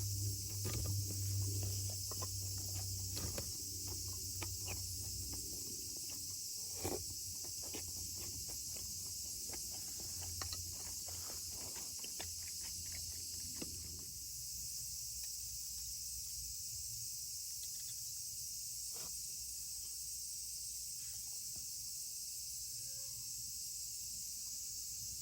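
Steady high-pitched chorus of insects throughout, with scattered sharp clicks and knocks and some low rumbling during the first half, which then stop.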